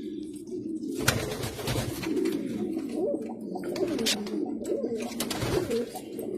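Several domestic pigeons cooing at once, with low calls overlapping and rising and falling. From about a second in there is also a rustling noise with sharp clicks.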